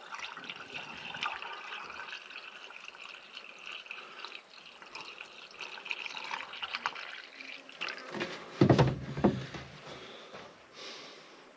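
Liquid being poured into the radiator filler neck of a Fordson Power Major tractor, running and gurgling as the radiator fills, with a few louder, deeper glugs or knocks about eight to nine seconds in.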